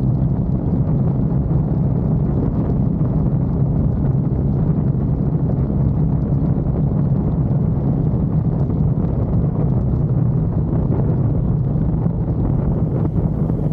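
Triumph Bonneville parallel-twin engine running steadily as the motorcycle cruises, a low, even engine note with no change in revs.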